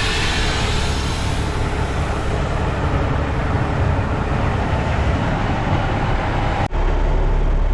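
Dump truck driving on wet roads: a steady low engine drone under a broad hiss of road and tyre noise. Near the end the hiss cuts off suddenly, leaving only the engine drone.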